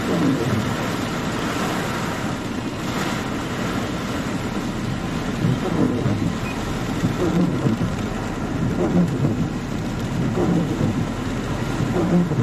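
Heavy storm rain pouring down steadily, a dense hiss of water.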